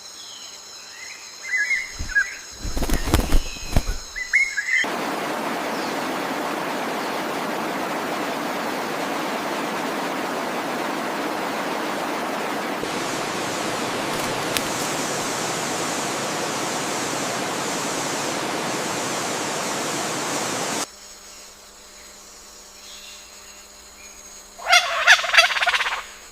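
Rainforest ambience. Steady high insect tones and a few bird chirps are followed about five seconds in by a loud, even rushing noise like falling water, which cuts off abruptly about sixteen seconds later. The insects return, and a loud, harsh bird call comes near the end.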